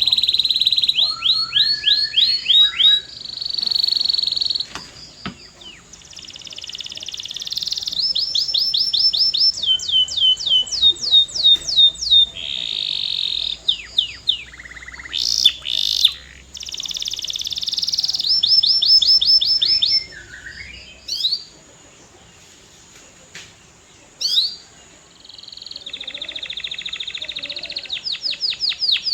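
Male canary singing, alternating fast rattling trills with runs of rapid down-slurred notes and short whistles. It pauses for a few seconds about two-thirds of the way through, then starts a fast trill again near the end.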